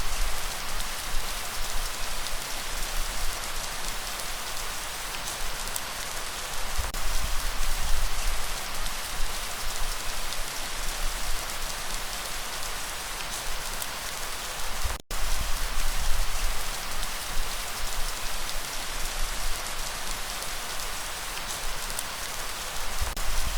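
Steady rain, a dense even hiss, with a low rumble underneath that swells and fades. The sound cuts out for an instant about fifteen seconds in.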